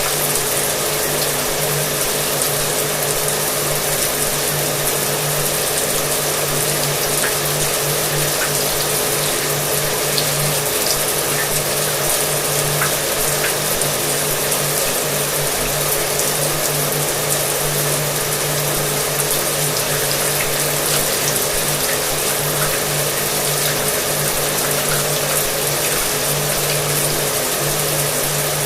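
Shower water spraying steadily, with a hair dryer's motor running under it as a continuous hum.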